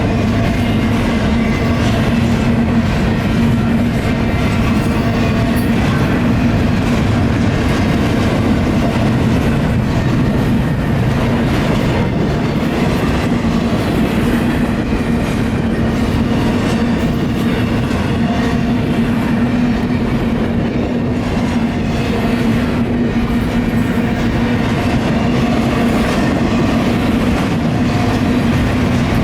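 Intermodal double-stack freight cars rolling steadily past, with the clickety-clack of their wheels over the rails. Under it, the crossing bell keeps ringing through the activation.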